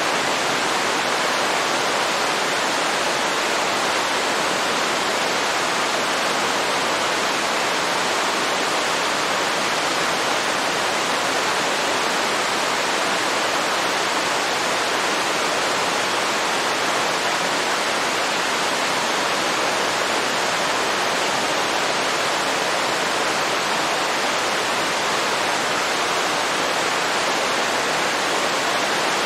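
Waterfall rushing steadily: an even, unbroken hiss of falling water with little deep rumble.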